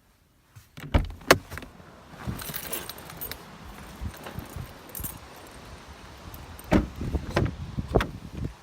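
Keys jangling and handling noise, with two sharp clicks about a second in and three heavy thumps near the end.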